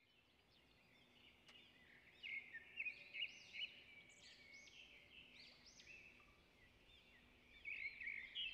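Faint bird chirping: quick, repeated short calls that rise and fall, in a burst a couple of seconds in and again near the end.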